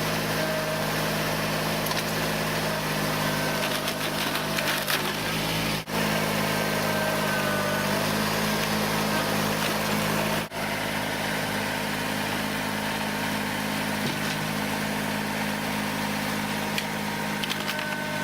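Kubota diesel tractor engine running at a steady speed, with a few short sharp cracks and clicks about four to five seconds in and again near the end.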